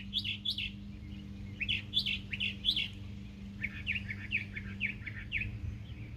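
A single songbird chirping in short phrases of quick, sliding notes, with a steady low hum underneath.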